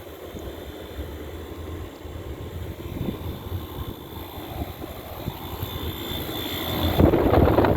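Outdoor air-conditioner condenser unit running, its fan giving a steady whooshing rumble. It grows louder toward the end and surges briefly before dropping back.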